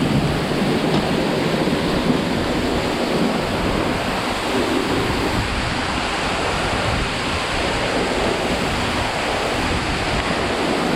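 Waterfall rushing steadily, a loud, even wash of falling water.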